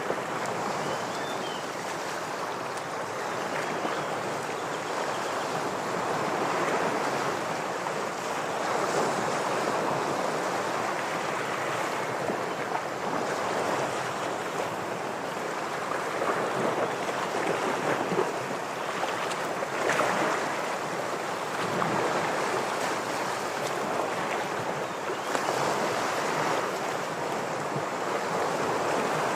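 Ocean waves washing against rocks: a steady wash of surf that swells and eases every few seconds.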